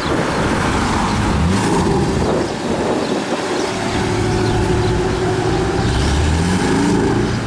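Porsche 718 Boxster S's turbocharged flat-four engine and exhaust under hard acceleration, the pitch climbing twice: about a second and a half in and again near the end.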